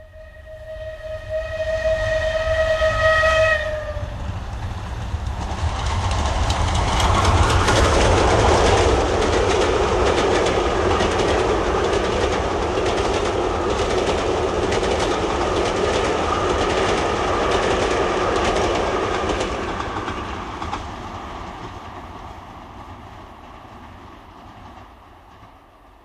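A train sounds one long whistle blast, then passes: wheels clatter over the rail joints as the train noise swells, holds, and fades away into the distance.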